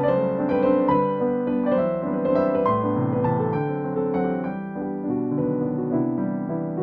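Background piano music: a soft, gentle keyboard melody over sustained chords.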